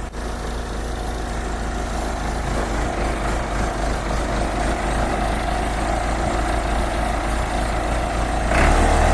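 Backhoe's diesel engine idling steadily, then rising in level briefly near the end.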